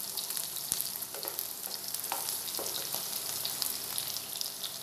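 Okra pieces frying in mustard oil over a medium-high flame, sizzling steadily, with a few scattered pops and the scrape of a wooden spatula stirring them in the pan.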